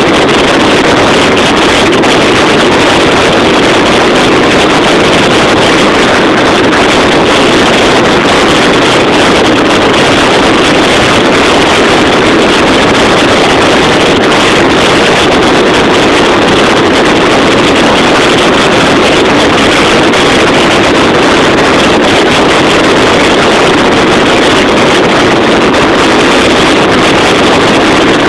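Loud, steady wind noise on the microphone of a moving bike.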